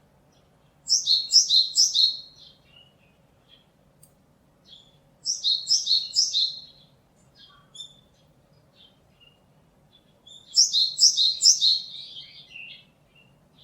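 Japanese tit singing: three bouts of song, each a quick run of repeated two-note phrases in which a high note drops to a lower one. Faint short call notes come in between the bouts.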